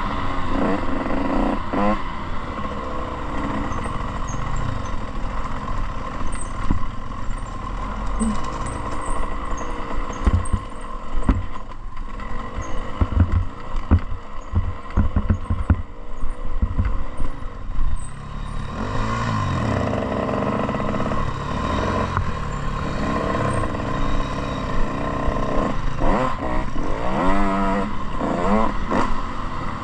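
Dirt bike engine being ridden hard, its pitch rising and falling again and again as it revs and shifts. Sharp clattering knocks come in a cluster around the middle.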